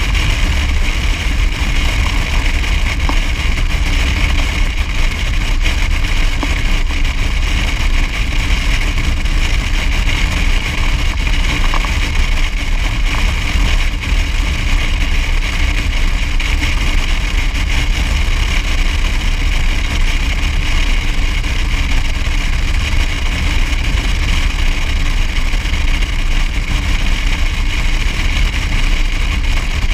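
Motor vehicle driving steadily along a road: a constant low rumble of engine and road noise with no change in speed.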